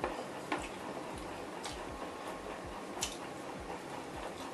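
Quiet eating sounds: chewing and mouth noises of someone eating stir-fried snails and melinjo skins by hand, with three brief sharp clicks.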